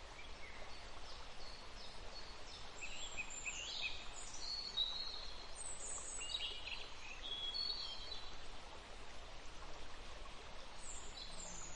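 Faint birdsong: several small birds chirping and trilling in quick, overlapping phrases over a soft background hiss.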